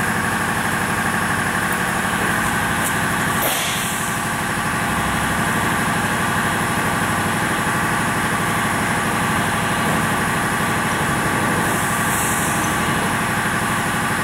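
Semi truck's diesel engine idling steadily, with a short burst of hissing noise about three and a half seconds in.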